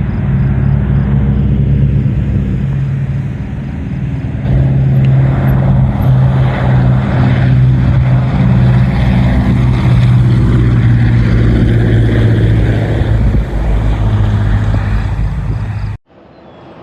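Aircraft engines running: a loud, steady low drone with a deep hum, cutting off suddenly near the end.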